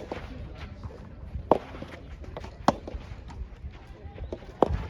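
Soft tennis rally: three sharp pops of the rubber ball being struck, roughly a second or two apart, with fainter knocks in between.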